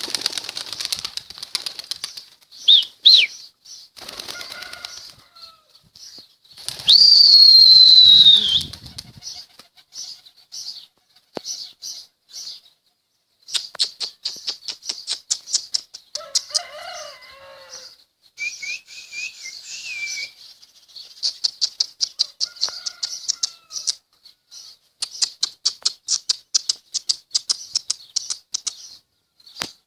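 Birds' wings flapping in repeated runs of quick strokes, with a loud falling whistle about seven seconds in and a few brief chirps later.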